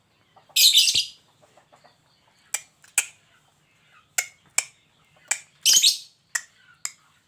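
A bird calling: two loud, harsh, rasping calls, one about half a second in and one later, with a scattered run of sharp, very short chip notes between and after them.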